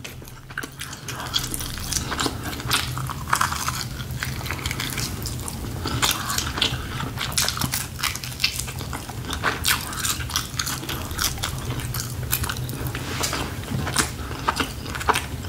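A person biting and chewing smoked, grilled barbecue chicken thighs eaten off the bone by hand, with a steady stream of short mouth smacks and clicks.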